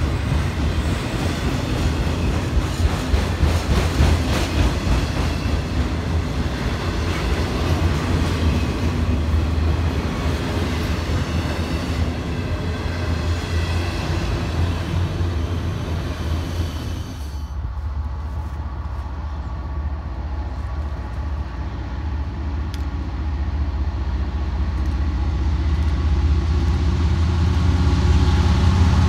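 Freight train of autorack cars rolling past close by, a steady rumble with the clatter of wheels over the rails. About two-thirds of the way through, it gives way abruptly to a quieter rumble. This is a Norfolk Southern diesel locomotive approaching, its engine growing steadily louder toward the end.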